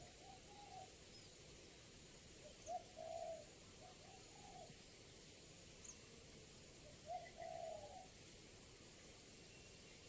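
Spotted dove (tekukur) cooing faintly in short phrases of a few low notes, a phrase every few seconds.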